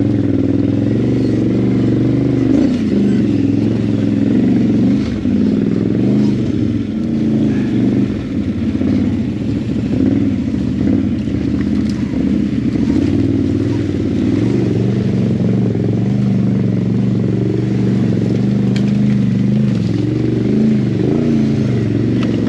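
ATV engine running at low speed, its pitch repeatedly rising and falling with the throttle.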